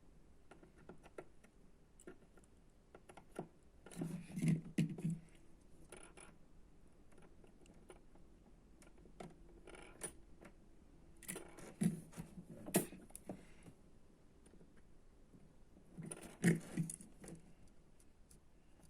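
Scattered small clicks, taps and light rattles of electronic parts and hand tools being handled, coming in three short clusters.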